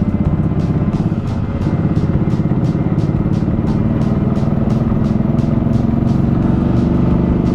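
Motorcycle engine running steadily while riding on the road. A music track's beat, about three ticks a second, plays over it.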